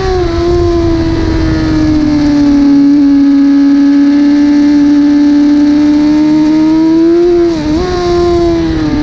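1000 cc superbike engine running hard at high revs. The pitch eases down slowly, then holds steady and climbs a little, with a brief dip in pitch and loudness near the end.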